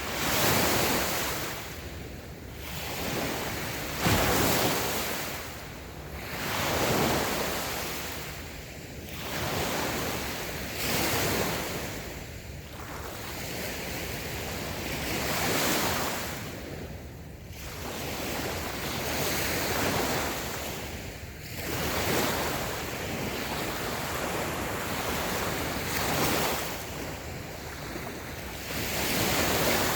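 Small waves breaking and washing up a sandy beach, swelling and falling every few seconds, with a sharp splash about four seconds in. Light wind noise on the microphone.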